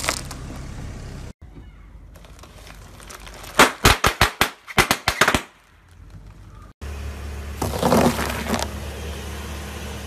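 Car tyre rolling over and crushing objects on pavement: a quick run of about ten sharp cracks and snaps in the middle, then, after a cut, a longer crunching as the tyre grinds a green block into wet crumbs. A low steady rumble lies underneath.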